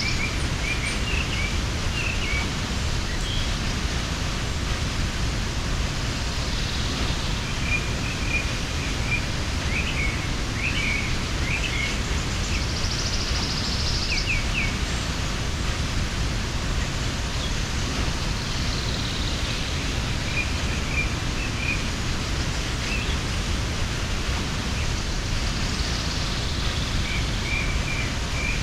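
Mountain waterfall rushing steadily, with small birds chirping in short scattered calls over it.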